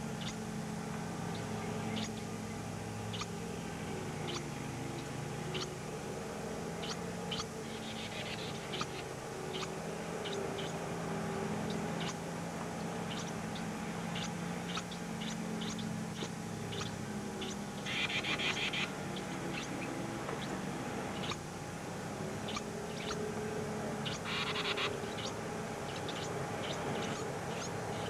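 Baby songbirds in the nest giving short, scattered high chirps, with two brief bursts of rapid repeated calls, one about two-thirds of the way in and one near the end. A steady low electrical hum runs underneath.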